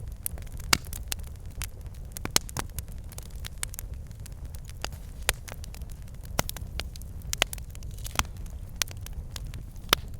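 Wood fire burning in a fireplace: a steady low rumble of flame with irregular crackles and sharp pops from the logs.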